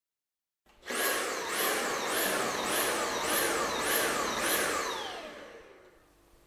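Dyson V7/V8 cordless stick vacuum's motor starting and pulsing, its whine rising and falling about every half second, seven times: the pulsing the machine is designed to make when a blockage stops air flowing through it. After the pulses the motor winds down with a falling whine and stops.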